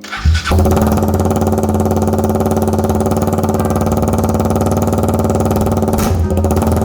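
KTM Duke 125's single-cylinder four-stroke engine catches about half a second in and settles into a steady idle, heard through its exhaust. There is a brief hiccup in the idle about six seconds in.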